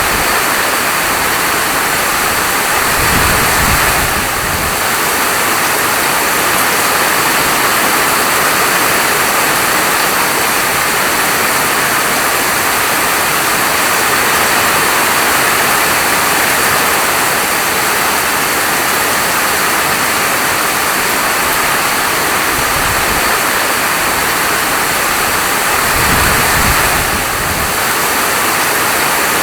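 Heavy rain falling steadily, a dense even hiss, with two brief low rumbles, about three seconds in and again near the end.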